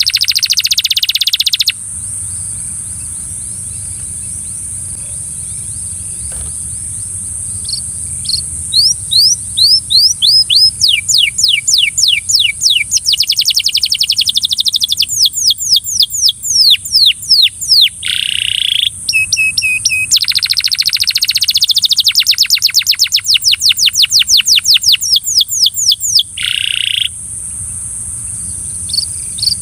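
Belgian canary singing in long rolling tours of rapid repeated downward-sweeping notes, several a second, with a few harsher buzzy notes. There is a pause of several seconds near the start, and a steady high hiss underneath.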